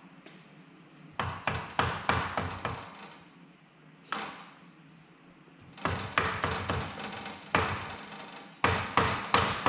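Bursts of sharp knocks, about three or four a second, as the engine is worked loose from the bare motorcycle frame with tools. There are three bursts, with a single knock between the first two.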